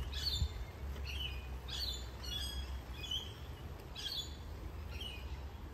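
Birds chirping: short, high calls repeated about once a second, over a steady low rumble.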